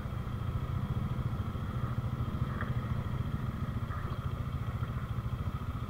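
Motorcycle engine running steadily with a fast, even low pulse.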